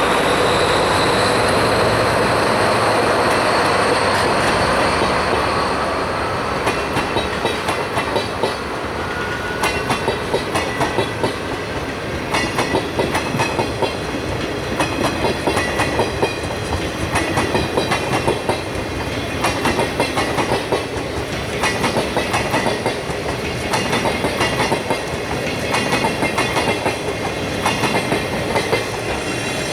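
Hokutosei sleeper express train rolling past, loud and steady for the first few seconds, then a long, regular clickety-clack of its carriages' wheels over the rail joints.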